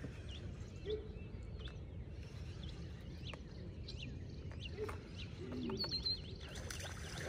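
Birds chirping here and there over a low, steady outdoor rumble.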